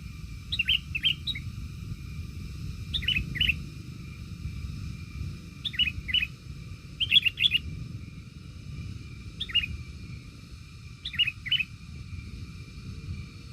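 A small bird chirping in short clusters of two or three quick notes, repeated every second or two, over a steady low rumble.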